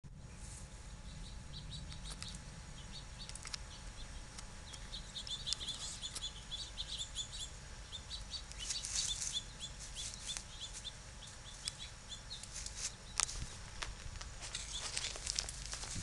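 Small birds chirping in quick runs of short, high notes, over a scatter of sharp crackles like dry grass and twigs being rustled.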